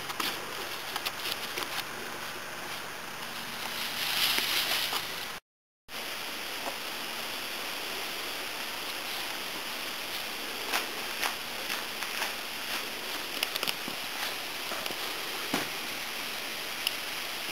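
Steady background hiss of outdoor ambience with scattered faint clicks. It swells briefly about four seconds in and drops to dead silence for half a second at an edit just after.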